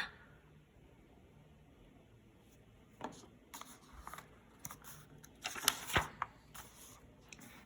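Near silence, then faint scattered rustling and clicking handling noises from about three seconds in, with a sharper click about six seconds in.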